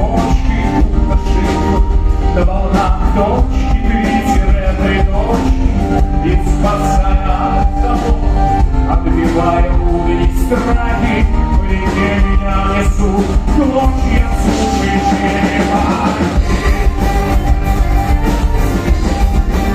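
Folk-rock band playing live with vocals: a steady drum beat and dense instrumental backing under singing.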